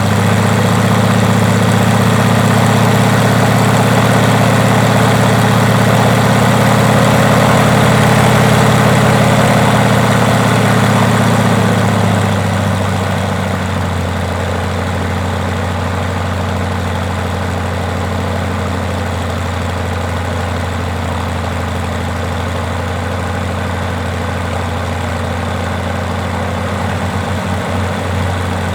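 Rotec R2800 seven-cylinder radial engine running steadily on its first run after long-term storage. About 12 seconds in its speed drops and it settles to a lower, quieter run.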